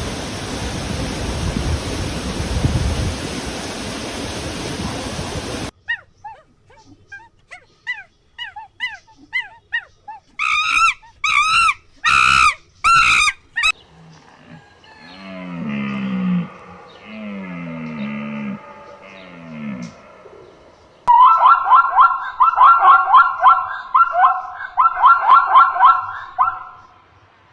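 A steady hiss for about six seconds, then a run of different animal calls in turn: short chirps, a few loud calls rising and falling in pitch, low calls sliding down in pitch, and fast trilled calls near the end.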